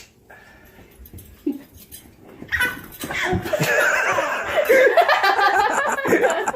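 Baby laughing hard: quiet at first, then from about two and a half seconds in a long run of high-pitched, wavering laughter.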